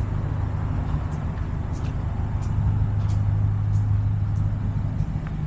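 A car's engine running with a steady low hum, with faint regular clicks about every two-thirds of a second.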